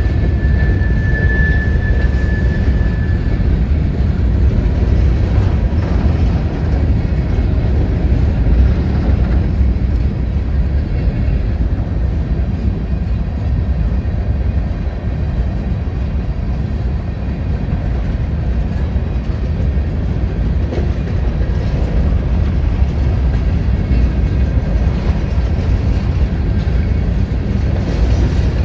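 Freight train rolling past: a steady, heavy rumble of cars on the rails, with a thin high tone over it for the first few seconds.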